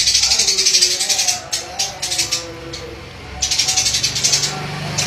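A bird's rapid, buzzy rattling chatter, in three bursts: a long one at the start, a shorter broken one, and another long one a little past the middle.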